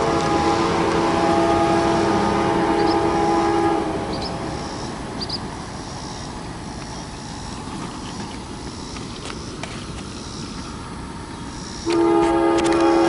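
Train locomotive air horn blowing a chord of several notes at once, cutting off about four seconds in, with the steady rumble of the train continuing. The horn sounds again near the end.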